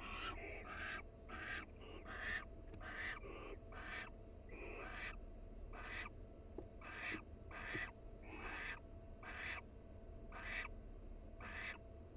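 Barn owl giving short, raspy hissing calls over and over, roughly one to two a second.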